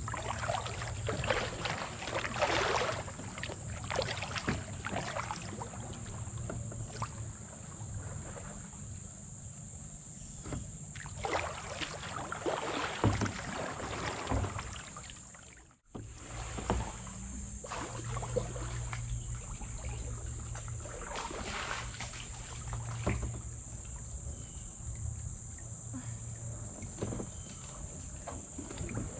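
Kayak paddles dipping and pulling through the water, with splashes and drips every second or two. Steady high insect chirring, typical of crickets, runs underneath. The sound cuts out for a split second about halfway through.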